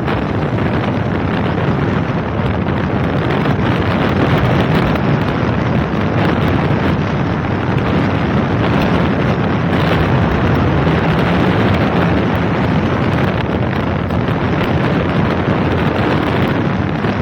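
Steady rush of wind buffeting the microphone on a moving scooter, with road noise underneath.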